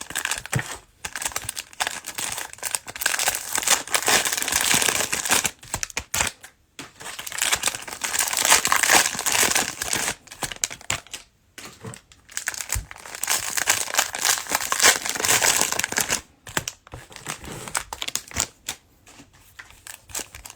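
Cellophane wrappers of Mosaic basketball card cello packs being torn open and crinkled, in bursts of crackling with short pauses between them.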